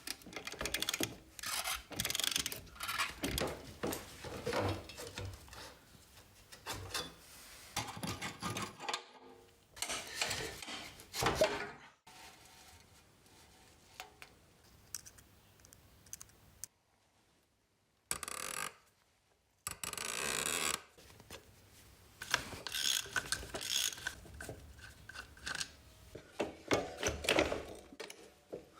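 Hand work on metal motorcycle parts: irregular clinks, scrapes and knocks of tools and parts. It comes in several short stretches that cut off abruptly, with brief silent gaps between them.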